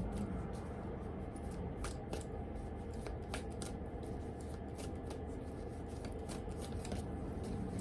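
A deck of oracle cards being shuffled by hand: scattered soft card flicks and snaps at an irregular pace, over a low steady hum.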